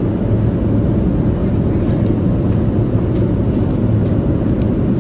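Steady cabin noise of a Boeing 787-9 airliner in flight: an even, low rush of engine and airflow noise.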